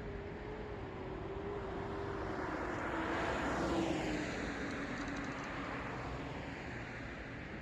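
A car passing by: its road and engine noise swells to a peak about halfway through and then fades, while a steady tone slowly drops in pitch as it goes past.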